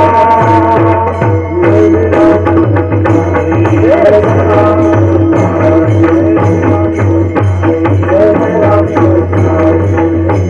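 Devotional music: a pakhawaj drum playing a steady rhythm under a held melodic drone, with a few short gliding melodic phrases.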